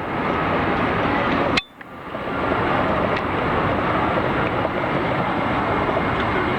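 Steady rushing noise that drops out suddenly about one and a half seconds in and swells back.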